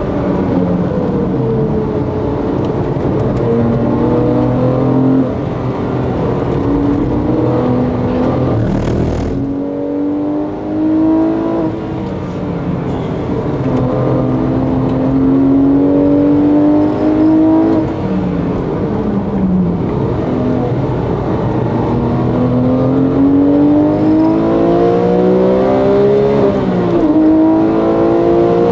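Porsche 911 GT3's flat-six engine heard from inside the cabin at racing pace. It climbs in pitch under hard acceleration and drops sharply at each gear change, with a brief lift off the throttle about nine seconds in.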